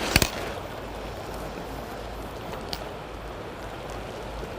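Steady rush of flowing river water through riffles. A sharp double click just after the start and a fainter click about two thirds of the way through.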